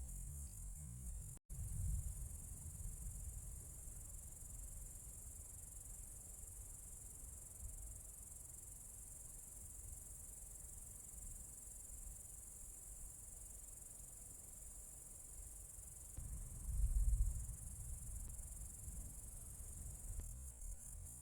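Steady high-pitched chorus of crickets in the night, with a low rumble underneath that swells briefly about three quarters of the way through.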